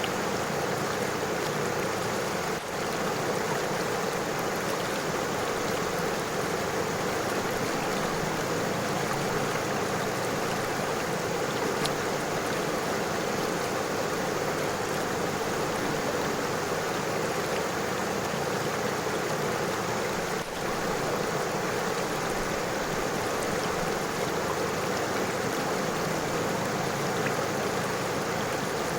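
River water flowing over stones: a steady rush of running water, dipping briefly twice.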